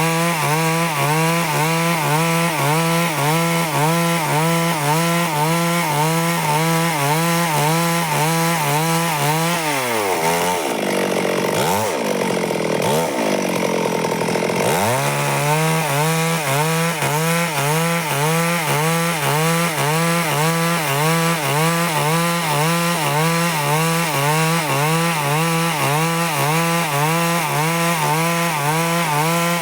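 Stihl chainsaw running at high revs while ripping a log into thin boards, its engine note wavering about once a second as the bar works through the cut. About ten seconds in the revs drop away, rise and fall twice, then climb back to full speed and the cutting goes on.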